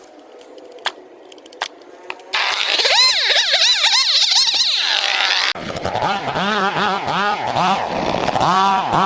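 Small two-stroke engine, of the kind in a brush cutter or string trimmer, revved up and down in quick repeated swells. It starts abruptly after a couple of quiet seconds with a few clicks, and about halfway through it drops to a lower pitch and keeps revving.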